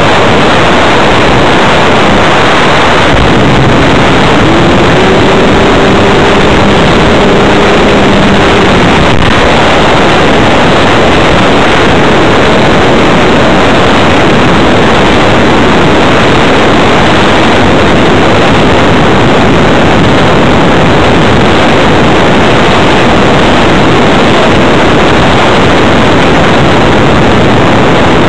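Loud, steady rush of airflow and electric-motor noise picked up by a small camera riding on an RC electric hotliner in flight. A faint whine rises in pitch about three seconds in, holds, and fades near nine seconds.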